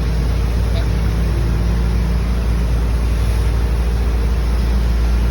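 A motor running steadily with a loud, deep rumble and a constant hum.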